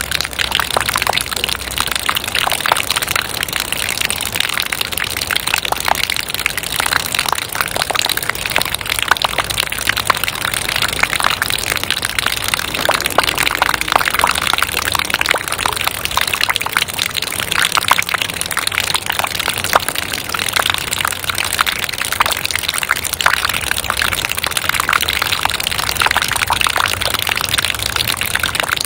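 Steady rain dripping: dense, irregular drop impacts over an even hiss of falling water, at a constant level throughout.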